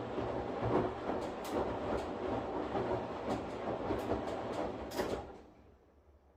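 Washing machine running, a steady low rumble with irregular clicks and knocks from the drum. About five seconds in the sound dies away, leaving only a faint hiss.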